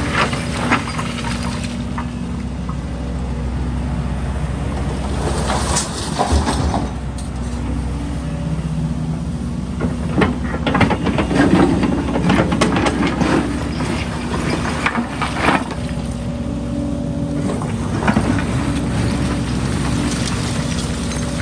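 Heavy diesel construction machinery running steadily with a constant hum and whine, and intermittent clattering knocks of concrete rubble being handled.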